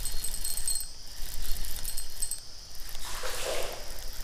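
Daiwa BG spinning reel being cranked in bursts as a small hooked catfish is reeled in, its gears giving a fast whirring rattle, over the steady buzz of crickets; a short splashing rustle about three seconds in.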